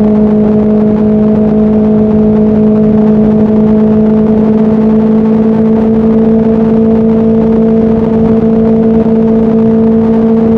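Motorcycle engine running steadily at highway cruising speed, its pitch creeping slightly higher as it gently gains speed, over a steady rush of noise.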